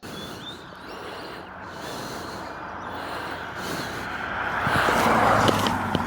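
Road vehicle noise that swells to its loudest about five seconds in and then eases off, over a steady low hum.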